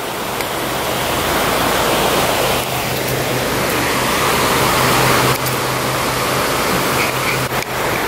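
Steady rush of river water tumbling over a rapid, growing louder over the first few seconds.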